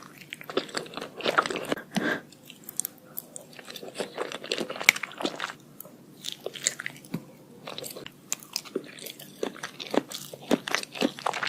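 Close-miked crunchy biting and chewing: a rapid, irregular run of sharp crackles and crunches as crisp food is bitten and chewed.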